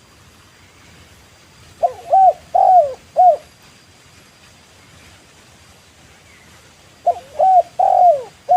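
Spotted dove cooing: two phrases of four short coos, each note bending up and then down. One phrase comes about two seconds in and the other about seven seconds in.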